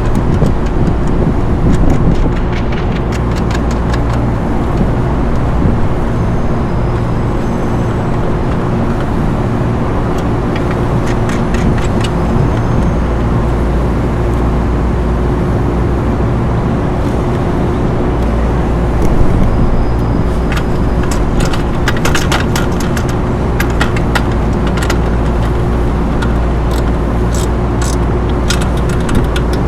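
A steady low mechanical drone with a constant hum, broken by scattered clicks and light metallic taps that come in clusters, most of them in the second half.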